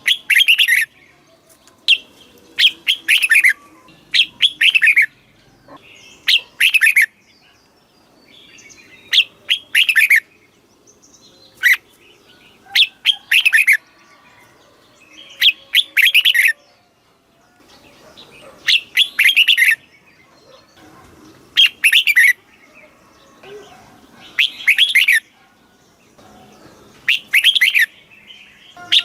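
Red-whiskered bulbul singing: a bright, warbled phrase about a second long, repeated every two to three seconds, each one a quick run of falling whistled notes.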